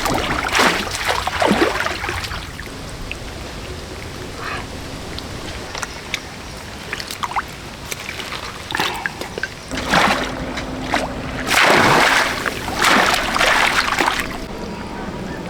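Water splashing and sloshing in a series of rushes, with trickling between them; the loudest splashes come about ten to fourteen seconds in.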